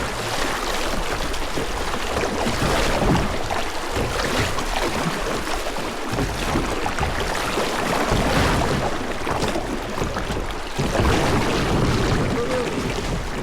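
Kayak paddle strokes splashing in river water, repeating every second or two, with wind buffeting the microphone.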